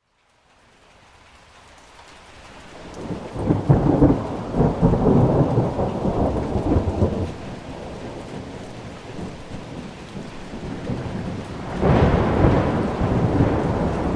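Thunderstorm: rain fades in out of a moment of silence, then thunder rumbles, swelling about three seconds in and rolling for several seconds before easing. A second peal of thunder breaks suddenly near the end, over steady rain.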